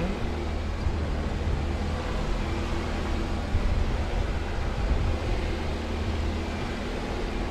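Jeep Wrangler Rubicon's engine running steadily under load as it climbs a steep slickrock trail, a low rumble.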